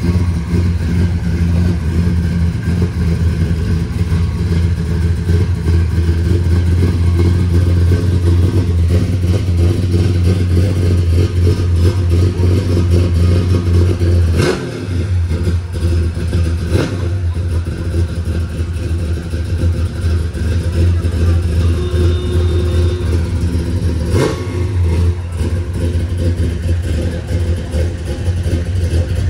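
Classic American muscle car's V8 engine running at a steady idle, with a brief dip about halfway and a few faint sharp clicks.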